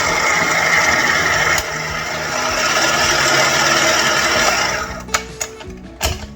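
Small electric kitchen motor running fast for about five seconds, giving the dry pizza-dough ingredients a quick stir. It drops a little in level about one and a half seconds in, then stops, followed by a few light clicks. Background music plays under it.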